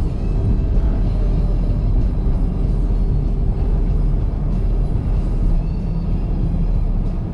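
Steady low rumble of a car driving, with soft background music over it.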